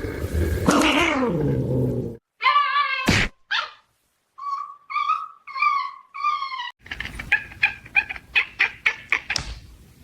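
A cat meowing: a couple of calls, then four short meows in a row, then a quick run of short, sharp sounds. The opening two seconds hold a noisier sound that falls in pitch.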